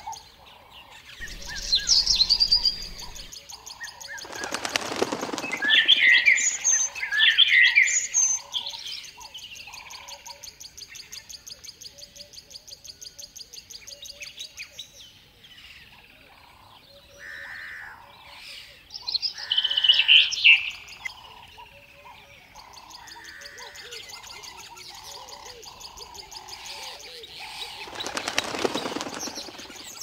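Small birds chirping and tweeting in short bursts, with a whoosh of flapping wings about four seconds in and another near the end. In the middle comes a run of quick, even taps, a bird pecking at its food dish.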